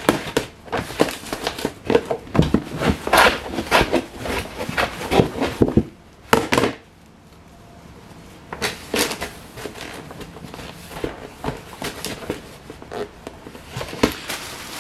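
Irregular clatter, knocks and rustling of things being handled, with a quieter pause of a second or two about seven seconds in.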